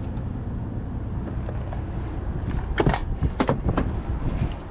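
Diesel semi-truck engine running steadily during a jump-start from another truck, with a cluster of loud sharp sounds about three seconds in; the steady noise drops off abruptly at the end.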